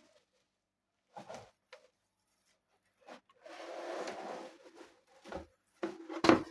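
Cardboard box and packing being handled while unpacking a lamp: a few light knocks, a rustling scrape of about a second in the middle, then a sharp knock near the end, the loudest sound.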